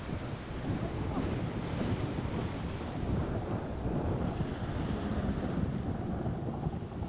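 Wind buffeting the microphone, a steady rushing noise that rises and falls, with the wash of the sea beneath it.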